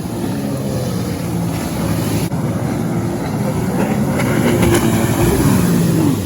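Personal watercraft (jet ski) engine running under way, with water and wind noise. It grows louder after the middle, and its pitch falls near the end as the throttle comes off.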